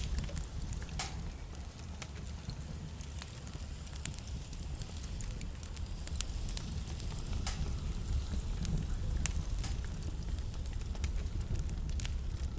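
Wood fire burning in a fireplace: a steady low rumble of flame with irregular crackles and sharp pops from the burning logs, a few of them louder.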